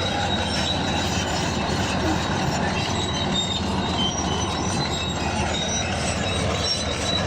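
Bulldozer working: engine running steadily under the clanking of its steel crawler tracks, with repeated short, high-pitched squeaks from the tracks.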